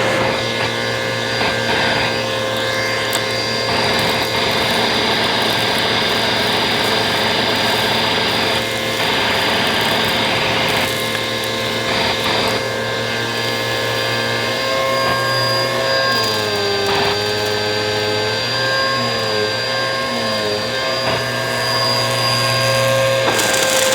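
Bissell vacuum cleaner running steadily, its motor whine over the rush of air. The pitch sags briefly a few times in the second half, as if the airflow is being loaded, and near the end the hiss turns brighter and louder.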